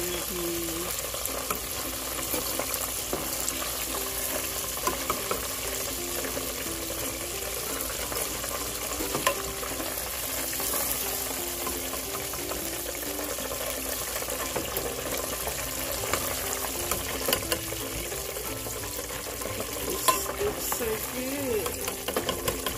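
Chicken tenders deep-frying in a pot of hot oil: steady sizzling and bubbling, with scattered clicks of a metal slotted spatula against the pan as the pieces are turned and lifted. Quiet background music with a simple stepping melody runs underneath.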